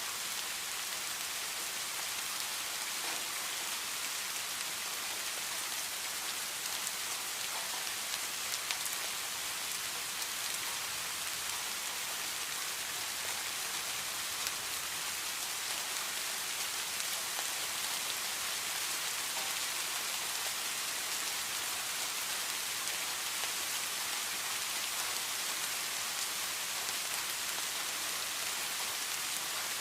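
Steady rain falling and pattering on a surface, an even hiss strongest in the highs with fine scattered drop ticks.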